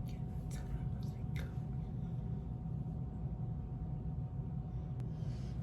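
Steady low room hum with a faint steady tone, and a few soft taps in the first second and a half.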